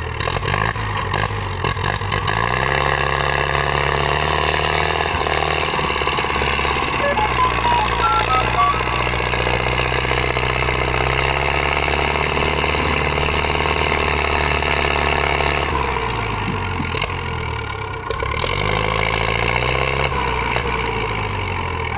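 Tractor diesel engine running steadily under load. Its pitch rises about two seconds in, drops a little past two-thirds of the way through, and picks up again near the end.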